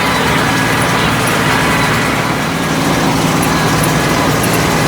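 A vehicle engine running steadily with an even low hum that holds the same pitch throughout.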